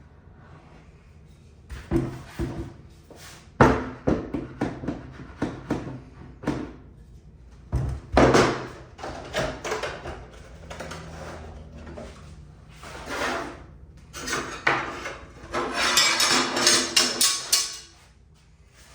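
Knocks and clatter of a freshly glued wooden drawer box and squares being handled and tapped into square on a workbench, a run of separate sharp knocks, then a rapid rattling clatter for a few seconds near the end.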